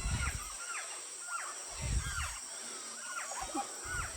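A large flock of birds calling all at once as they settle on a branch to roost: many short, hooked calls overlapping into a steady racket. A steady high insect drone runs underneath, and a few low thumps break in.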